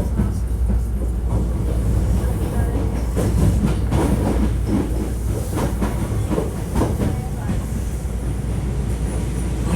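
Hankyu 1300 series electric train car running, heard from inside the cabin: a steady low rumble with clickety-clack from the wheels and rail joints, most busy in the middle. The recordist labels this car one with an abnormal running noise.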